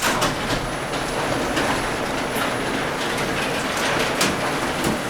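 Genie Excellerator garage door opener running as it opens the door: a steady motor hum with a faint high whine, and irregular clicks and clatter from the door moving along its tracks.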